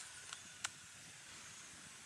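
Three short, sharp chip-like bird call notes in the first second, spaced about a third of a second apart, then only a faint steady hiss.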